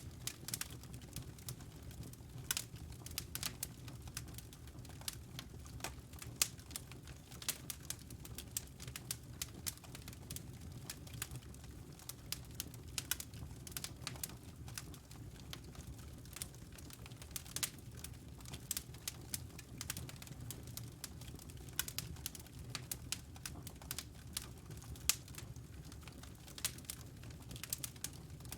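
Wood fire crackling in a fireplace: irregular sharp pops and snaps, several a second at uneven spacing, over a low steady rumble.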